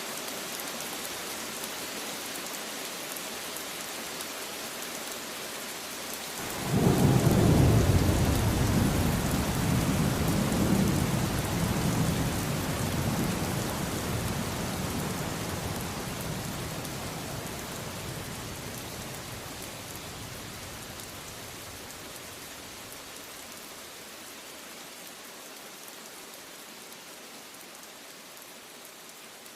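Steady rain falling, then about six seconds in a loud clap of thunder breaks in and rolls on as a deep rumble, slowly dying away over the next fifteen seconds or so.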